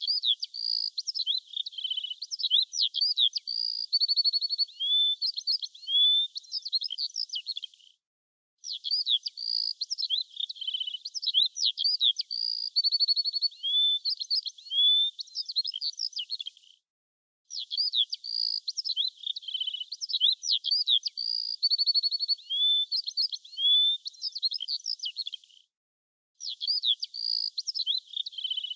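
Recorded bird song used as a looped track: the same stretch of quick chirps, whistles and trills, about eight seconds long, plays over and over, with a short silent gap between repeats. It sounds thin, with no low end.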